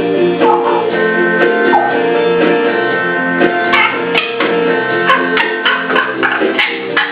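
Plucked guitar music with steady sustained notes, over which a young African grey parrot makes short whistled glides and clicks, babbling in a sing-song way because it cannot yet talk.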